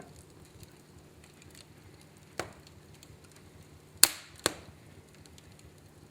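Wood fire burning in a fireplace, a faint steady crackle broken by three sharp pops, the loudest about four seconds in.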